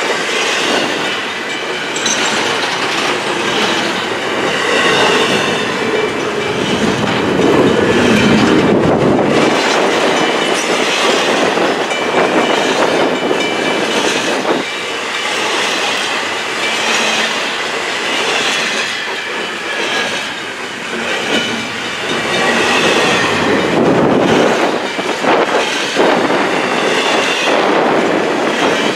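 Loaded double-stack container well cars of a freight train rolling past at close range: a continuous rumble and clatter of steel wheels on the rails, with thin, high wheel squeals coming and going.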